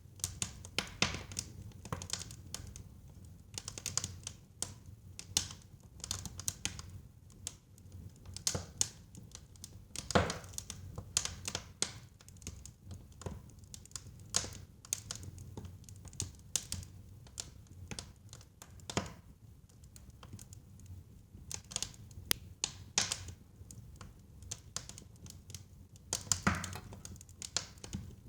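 Wood fire burning in a fireplace, crackling with irregular sharp clicks and occasional louder pops over a low steady rumble of the flames.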